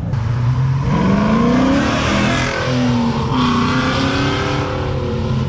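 Car engine accelerating hard: its pitch climbs from about a second in, drops briefly a little past three seconds as at a gear change, then climbs again.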